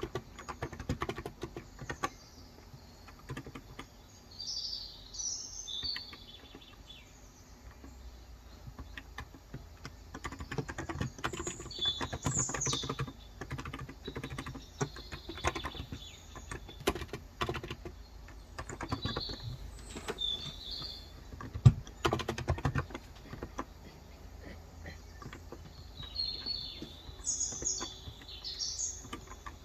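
Typing on a COX Endeavor tenkeyless keyboard with 35 g electro-capacitive switches, in irregular runs of keystrokes with one louder stroke a little past the middle. Birds chirp in four short bursts over the typing.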